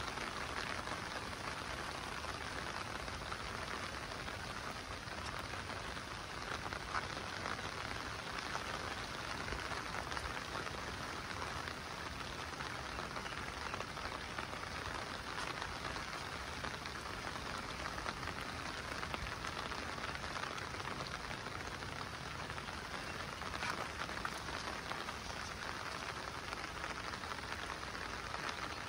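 Steady monsoon rain falling, a continuous hiss of drops, with two slightly louder single taps, one about seven seconds in and one later.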